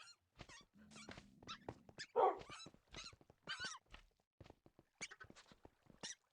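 Animal calls, short wavering high-pitched squeals and yelps repeated throughout, with a louder, lower call about two seconds in, among many small clicks and knocks.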